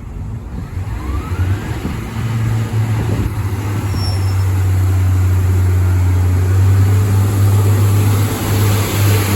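Diesel locomotive engine running with a steady low drone that grows louder over the first five seconds and then holds.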